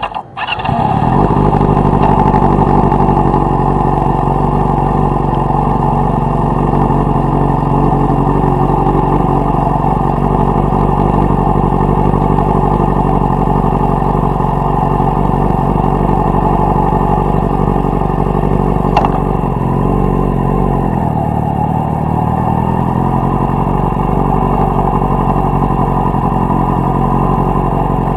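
Yamaha R6's inline-four engine catching within the first second and then running steadily at low revs, its pitch dipping and recovering briefly about twenty seconds in.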